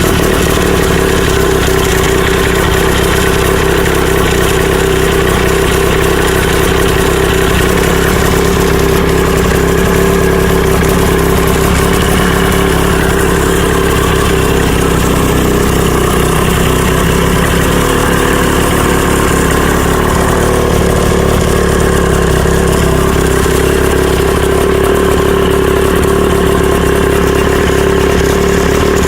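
Mercury 35 hp two-stroke outboard motor idling steadily and smoothly just after starting, its carburettor and water pump freshly serviced.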